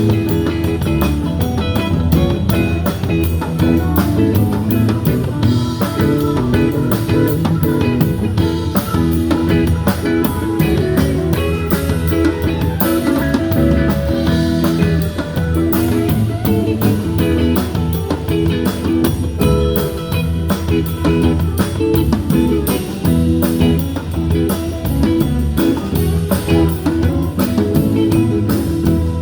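Blues-rock band playing an instrumental passage: guitar over bass and a drum kit keeping a steady beat.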